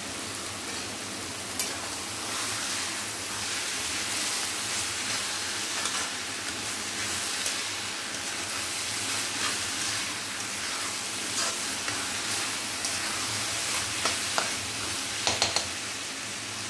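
Spring onion greens, moong dal and green peas sizzling steadily in a metal kadhai while a spatula stirs them. The spatula scrapes and clacks against the pan now and then, once about a second and a half in and several times near the end.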